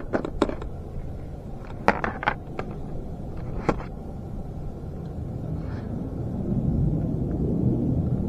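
Wood fire crackling in a portable wood stove: several sharp pops in the first four seconds over a low steady rumble that grows louder near the end.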